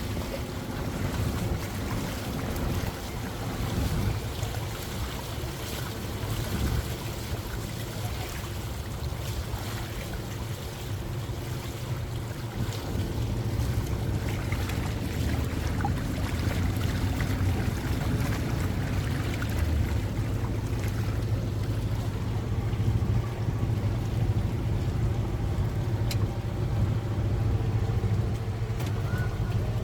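A lake cruise boat's motor running steadily: a continuous low rumble with a faint hum, over a hiss of water and wind.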